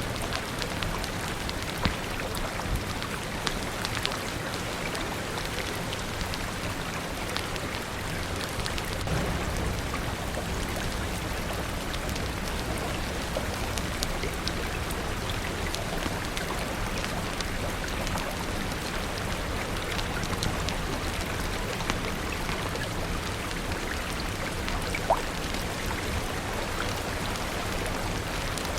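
Steady rain falling, mixed with a crackling fire that gives scattered sharp pops. Two pops stand out louder, about two seconds in and near the end, over a low steady rumble.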